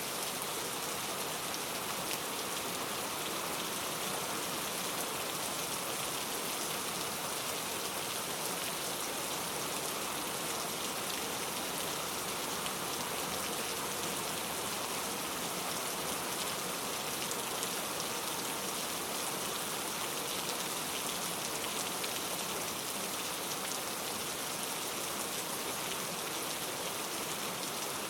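Steady rain falling on a surface, a dense even patter of drops without thunder.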